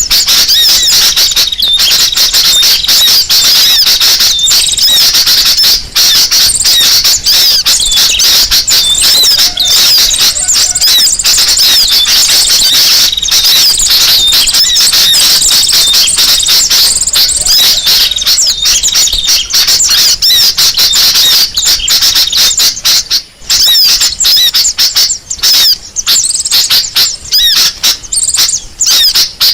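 Dense, loud, noisy chorus of many small birds chattering and twittering with rapid high chips. It is a bird-lure recording (pikat ribut) used to draw birds in.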